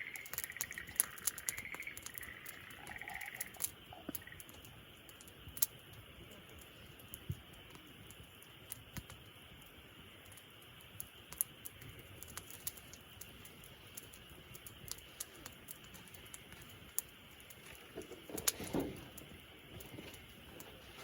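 Wood fire crackling: irregular sharp pops and snaps over a faint steady hiss, with a louder crackle and low rustle about 18 seconds in. A few short chirps sound in the first few seconds.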